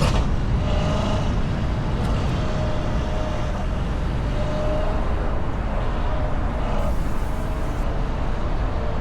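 Motor vehicle running with a steady low rumble and a faint engine tone that slowly rises and falls.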